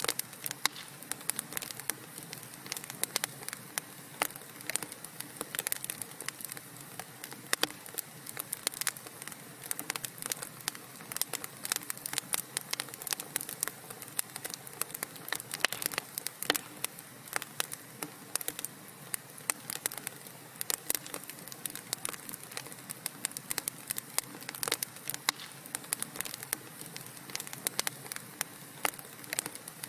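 Wood fire burning in a fireplace, crackling and popping with many small irregular snaps over a soft steady hiss.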